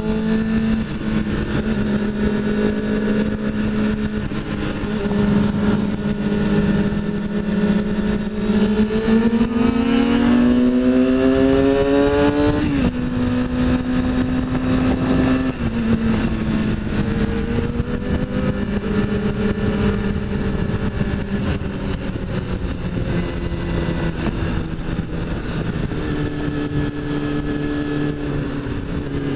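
Inline-four sport motorcycle engine pulling up a mountain road, heard on board over a steady rush of wind. The revs climb for several seconds, fall sharply at a gear change about 13 s in, drop again a couple of seconds later, then hold fairly steady.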